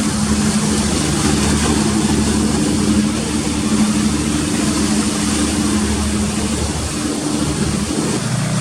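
Steady low drone of a passenger ship's engines, with two even hum tones over a rumble and a constant hiss.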